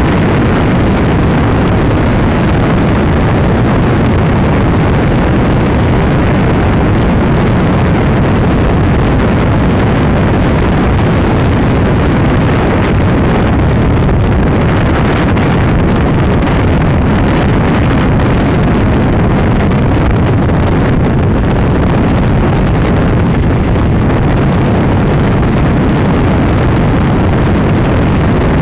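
Steady rush of wind buffeting the microphone, over a Honda Supra X 125 motorcycle's single-cylinder four-stroke engine running at high speed on a top-speed run.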